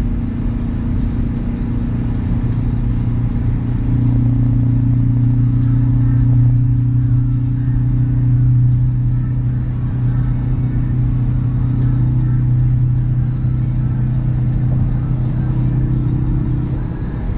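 Hyundai Veloster N's turbocharged four-cylinder engine and exhaust drone steadily at highway cruising speed, heard inside the cabin over tyre and road noise. The pitch edges up slightly near the end.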